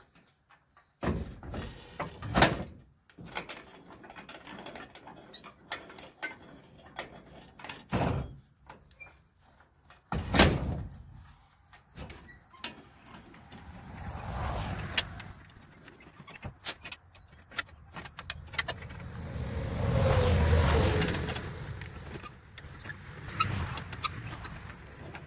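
Irregular metal clanks, knocks and rattles of a trailer being hitched to a pickup truck: the coupler, hitch and chains being handled. A few sharp clanks stand out, and a low rumble swells about twenty seconds in.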